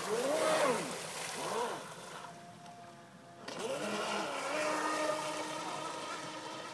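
Radio-controlled boat's motor whining, its pitch rising and falling as the throttle is opened and closed: twice in the first two seconds and again about three and a half seconds in, with a steadier hum between.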